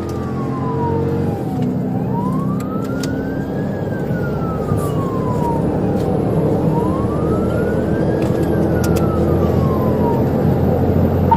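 Police car siren on a slow wail, its pitch rising and falling about every four to five seconds, over steady engine and road noise.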